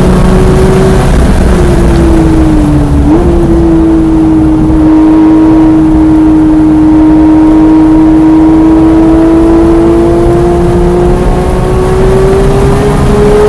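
Porsche 911 GT3 (991.1) flat-six engine under load on track: its note falls as the revs drop, jumps up sharply about three seconds in as a downshift, then climbs slowly and steadily as the car accelerates for the rest of the stretch.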